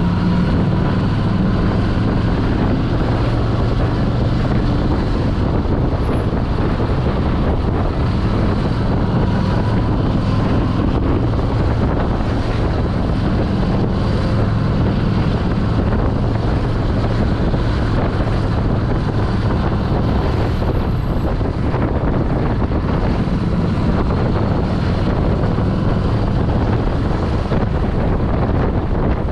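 Harley-Davidson Street 750's liquid-cooled V-twin engine running at low road speed in stop-and-go traffic, with steady wind noise on the microphone.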